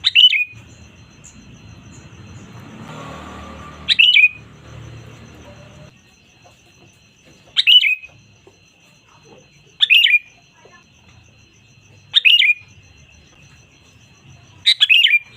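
Sooty-headed bulbul (kutilang) calling: six short, loud, downward-sweeping notes spaced a few seconds apart. A faint steady high tone sits behind the calls.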